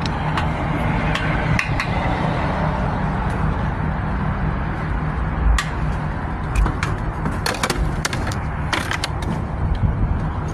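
An engine idling with a steady low rumble, with scattered sharp clicks and knocks over it.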